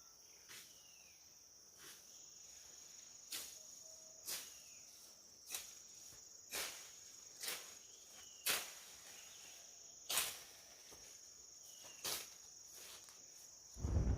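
Insects shrilling steadily in one high pitch, with a series of short rustling strokes about once a second and a few faint chirps; a loud low rumbling noise starts at the very end.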